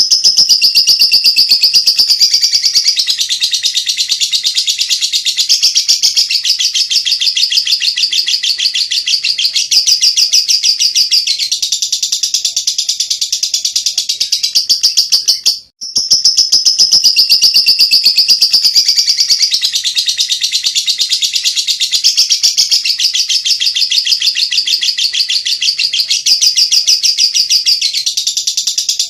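A lovebird singing 'ngekek': a long, unbroken, very fast chattering trill, high-pitched and loud. It breaks off once, about halfway through, then starts again in the same way.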